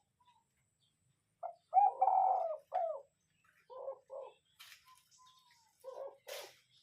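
Spotted dove cooing: one longer, louder coo phrase about a second and a half in, then two short pairs of low coos. A couple of brief rustles are heard near the end.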